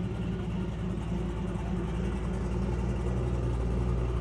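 A muscle car's engine idling steadily, growing a little louder in the second half.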